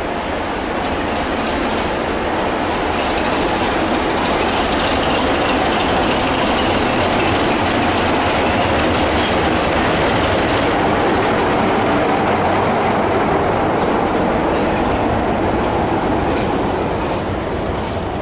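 A train running past on the rails, its wheels clattering, the noise building to a peak midway and easing off near the end.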